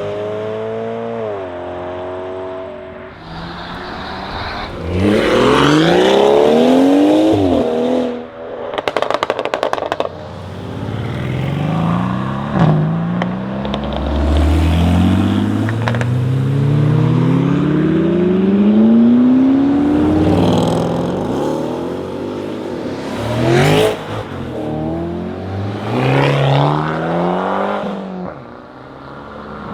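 BMW 540i Stage 2's turbocharged straight-six accelerating hard several times, its revs climbing and dropping back with each upshift. Around nine seconds in comes a burst of rapid exhaust pops and crackles.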